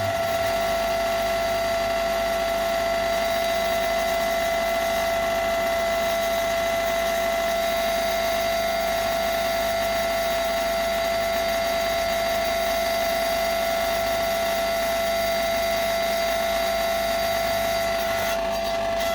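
Single-phase AIRE induction motor running through a three-wire triac soft starter, giving a strong steady hum with vibration made of several steady tones; two of the higher tones drop out near the end. The hum comes from the triac not opening fully and clipping the supply sine wave, and it is absent when the motor runs straight off the mains.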